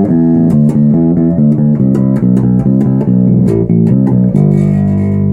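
Zoot custom passive bass guitar, neck pickup soloed with its tone control full up, played through a Markbass amp and 1x12 cabinet. A run of quick plucked notes ends about four seconds in on a held note that rings on.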